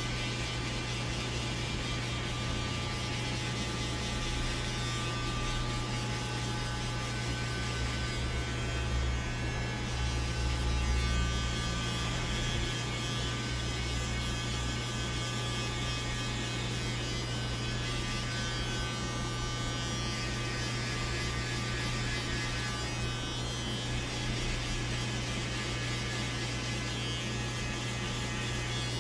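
Electric hair clippers running with a steady hum while cutting a fade, briefly louder in the low end about ten seconds in.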